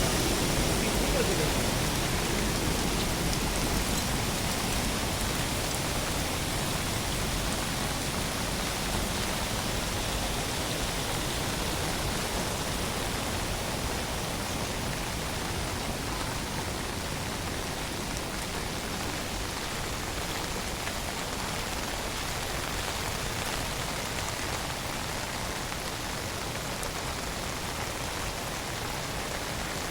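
Steady rain falling, an even hiss with no distinct drops standing out, growing slightly quieter over time.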